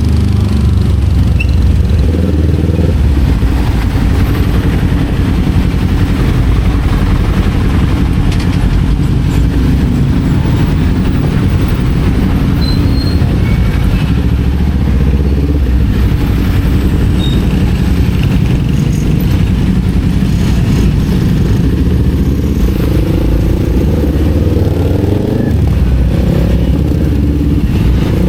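Kawasaki Z400's parallel-twin engine running on the move, its pitch stepping up and down several times with throttle and gear changes, over a steady rush of road and wind noise.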